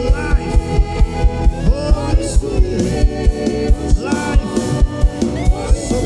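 Gospel worship music: voices singing over a band with a steady drum beat.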